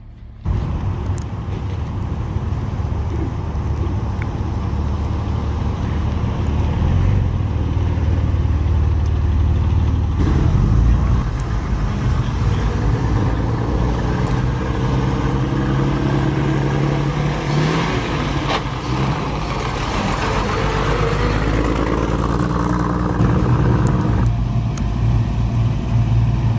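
A car engine running, its pitch shifting up and down at times in the middle.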